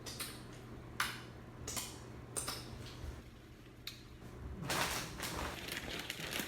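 Close-miked eating sounds: several short, sharp chewing or utensil noises, then a denser run of them from about two-thirds of the way in.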